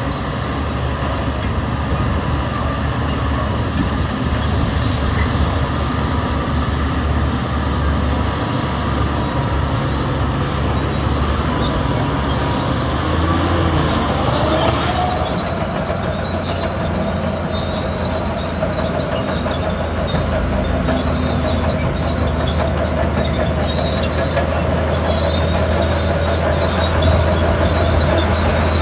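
Heavy diesel construction machinery running steadily under load, with a constant low engine drone. About halfway through, the pitch shifts and a thin, high squeak starts recurring over the engine.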